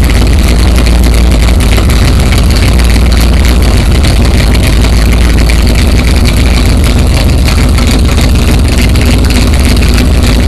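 A Dodge Dart drag car's 408-cubic-inch stroker V8, built from a 360 small-block, idling steadily and loudly.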